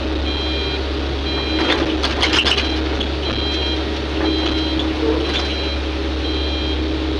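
Backup alarm on heavy mining equipment beeping about once a second over the steady running of a diesel engine, with a short burst of knocking and rattling about two seconds in.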